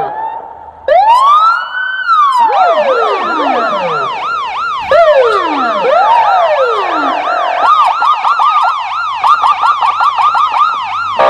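Electronic police siren. A rising wail about a second in, then a fast repeating yelp of about four cycles a second, with several long falling sweeps laid over it.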